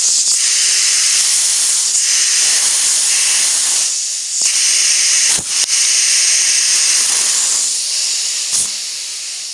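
Compressed air hissing loudly from an air blow gun held into a fitting of a steam press chamber for a leak test, the air escaping around the gun's nozzle, 'leaking like a good one'. Two brief knocks come about five and a half and eight and a half seconds in, and the hiss fades near the end.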